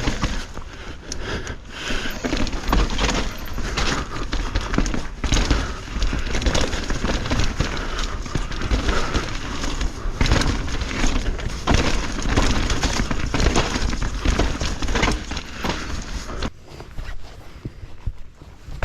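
Mountain bike riding over rough, wet trail: tyres crunching over roots and rocks, with the frame and chain rattling, many sharp knocks, and a low rumble of wind. The noise drops off sharply near the end as the bike slows.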